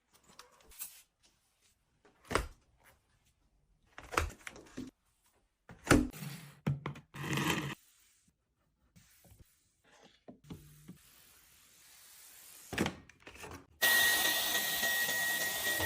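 Objects being handled and set down, with several separate knocks and clatters, then about two seconds before the end an electric motor switches on and runs with a steady whine.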